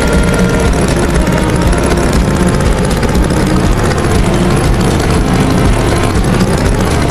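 Tractor engine sound effect running steadily with a rough, low rumble.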